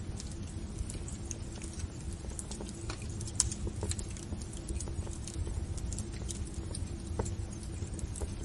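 Wood fire in a fireplace crackling and popping: irregular sharp snaps over a low steady rumble, with the loudest snap about three and a half seconds in.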